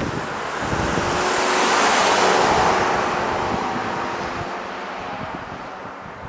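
A car passing by on the road: tyre and engine noise swells to its loudest about two seconds in, then slowly fades away, with a faint steady hum through the middle.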